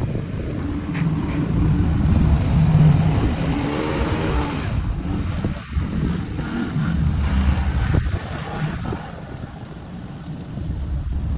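Jeep engine running as the vehicle drives along, its low drone rising and falling in pitch with the throttle.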